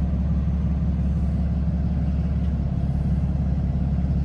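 TYM T574 tractor's diesel engine running steadily at a low, even rumble.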